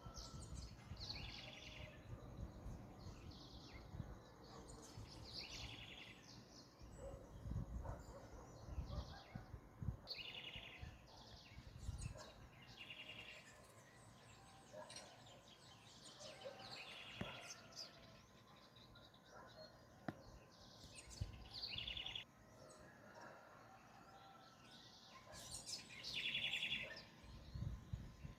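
Birds singing at dawn: a short trilled phrase repeated every few seconds, with scattered chirps, over a faint low rumble.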